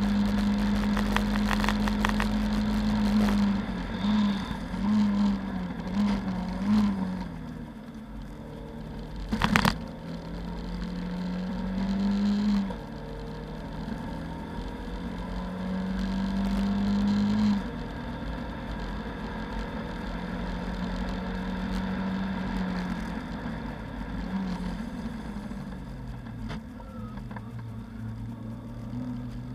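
Lada 2109 race car's four-cylinder engine heard from inside the cabin, pulling hard through the gears. The revs climb steadily and drop sharply at each gear change, with a cluster of quick rev drops and blips a few seconds in. A single sharp knock comes about nine and a half seconds in.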